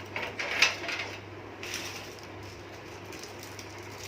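A few light clicks and knocks of computer hardware being handled during assembly, bunched in the first second, then only a faint steady hum.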